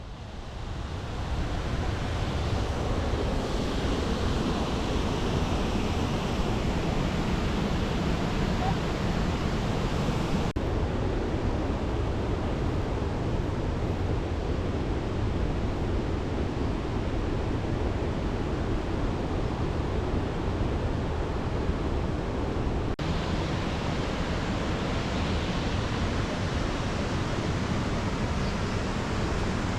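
Steady rushing noise that fades in at the start and then holds even, with two very brief dropouts at cuts partway through.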